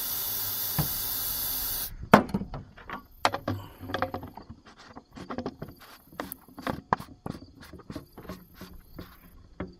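A steady spray hiss, typical of aerosol propellant being sprayed into a potato cannon's chamber while it is loaded, cutting off about two seconds in. Irregular clicks and knocks follow as the cannon is handled.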